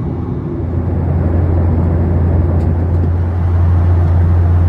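Steady low drone of a Boeing 737-800's cabin, the engines and airflow heard from a window seat, growing louder from about a second in.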